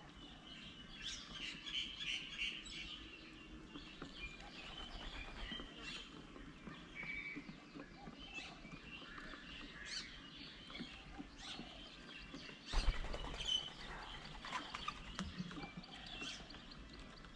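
Small birds at an outdoor bird table chirping and calling in short, scattered notes. A brief low thump-and-rumble comes about thirteen seconds in.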